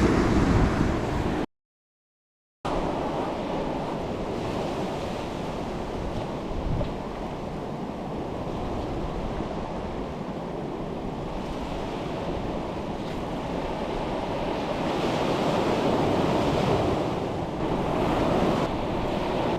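Surf washing on a beach with wind buffeting the microphone, swelling and easing in slow waves. The sound cuts out completely for about a second near the start.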